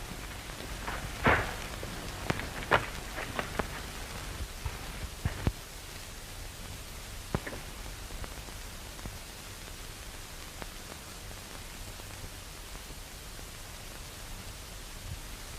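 Hiss and low hum of an old film soundtrack, with a scatter of sharp clicks and crackles over the first five seconds or so, then steady hiss with only an odd click.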